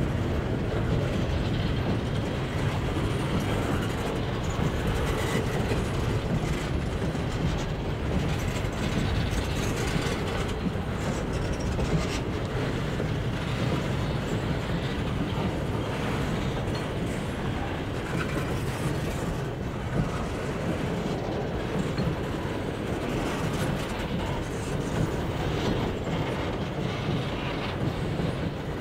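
Freight cars (boxcars and covered hoppers) rolling slowly across a wooden trestle: a steady low rumble of steel wheels with scattered clacks from the rough, poorly maintained track.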